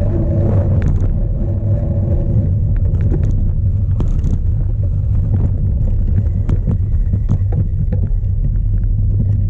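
Strong wind rumbling on the microphone of a bike-mounted camera, with scattered clicks and knocks from a cyclocross bike rattling over rough ground.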